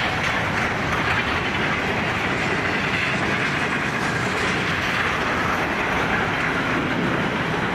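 Intermodal container freight wagons rolling past at speed: a steady, continuous noise of steel wheels running on the rails.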